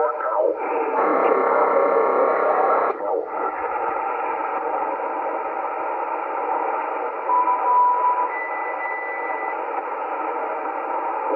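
ICOM IC-718 HF transceiver's receiver audio on the 40-meter band: steady band-limited static hiss as the band is searched for signals. About a second in, a harsher signal full of steady tones comes through for about two seconds. About seven seconds in there is a short whistle, then a higher one lasting about a second: carriers heterodyning in the receiver.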